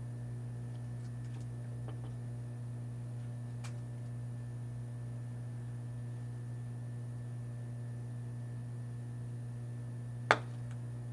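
Steady low hum, with a few faint ticks and one sharp click near the end.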